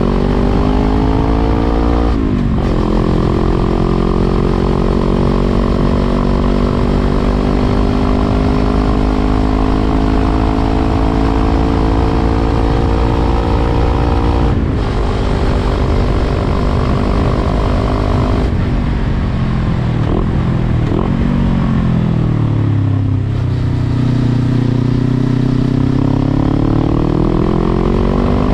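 Suzuki GSX250R's parallel-twin engine through an aftermarket Tadao Power Box header and WR'S muffler, running under way. The exhaust note climbs steadily in pitch and drops sharply at gear changes about 2 and 15 seconds in, falls as the bike slows around 20 seconds in, then climbs again.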